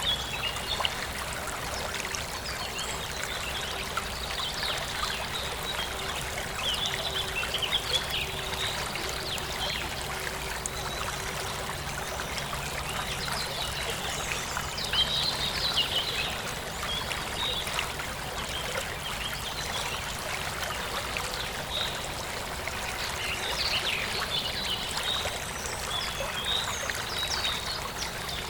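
Forest stream trickling and splashing steadily over stones, with bird chirps scattered through it, most clearly about a quarter of the way in, halfway through and near the end.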